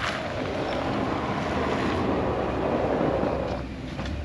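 Plow truck running, heard under a steady rush of noise from the blizzard wind.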